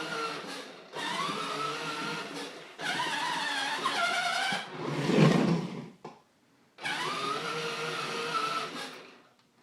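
Electric motor and gearbox of a child's battery-powered ride-on toy truck whining, its pitch shifting as the load changes. It runs in spells of a couple of seconds, stops briefly about six seconds in and again near the end, with a heavier low rumble just after five seconds.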